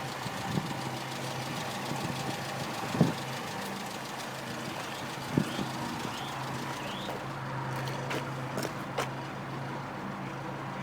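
Engine idling steadily with a low, even hum. A couple of short knocks come about three seconds and five and a half seconds in.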